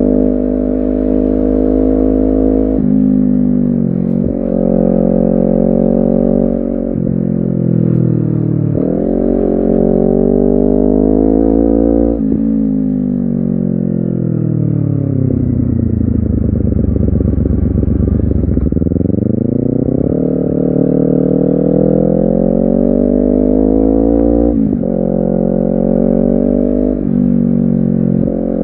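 Honda CBR250RR's parallel-twin engine pulling through the gears. Its pitch climbs and drops sharply at each upshift, then falls away as the bike slows. It climbs again through two more upshifts near the end.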